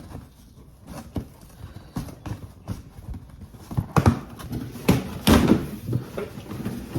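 A delivered package holding running shoes being handled and opened by hand: a run of irregular knocks and rustles of packaging, loudest about four to five and a half seconds in.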